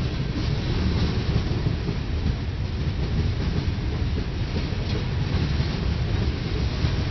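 Freight train of covered hoppers and tank cars rolling past close by: a steady low rumble of steel wheels on the rails.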